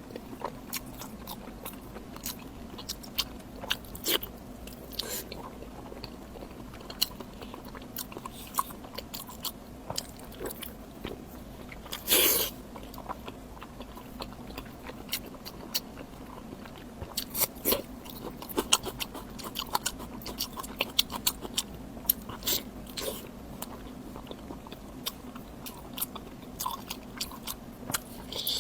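Close-miked chewing and biting of pig lung, with many short wet mouth clicks and one louder burst about twelve seconds in.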